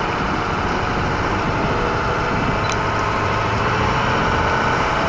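Truck engine running, with steady, even engine and road noise.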